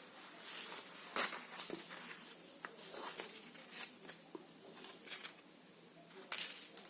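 Oxford fabric rustling and crinkling as it is handled, in irregular short bursts with one louder crinkle about a second in and another near the end.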